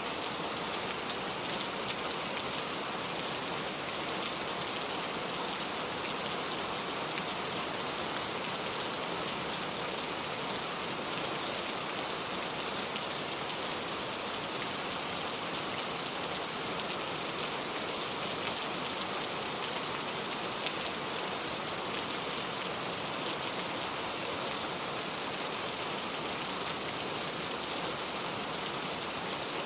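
Heavy rain pouring steadily, a dense even hiss of drops with fine patter from drops striking a surface.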